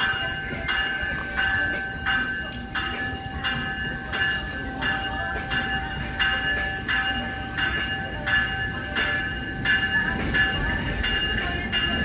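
Locomotive bell ringing steadily, about three strokes every two seconds, on an NJ Transit ALP-46A electric locomotive moving through the station, with a steady whine and rumble from the train underneath.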